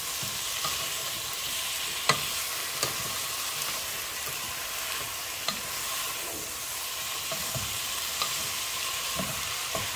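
Pork cubes, peppers, onion and leek sizzling in a nonstick frying pan, frying dry in their own juices with no water or lid yet, while a wooden spatula stirs them. A few sharp knocks of the spatula against the pan break the steady sizzle, the loudest about two seconds in.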